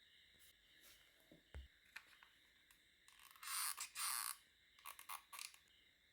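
Scraping of stiff plastic being worked by hand: a loud scrape of about a second, in two strokes, near the middle, then a few quick short scrapes, with faint clicks before.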